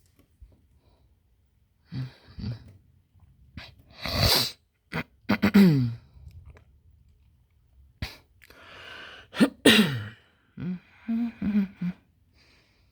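A person sneezing, twice, each a breathy rush ending in a sharp voiced burst that falls in pitch, with short breathy vocal sounds before and after.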